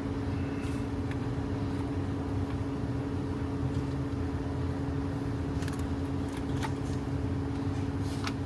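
Steady mechanical hum with a low rumble underneath, and a few light clicks past the middle and near the end.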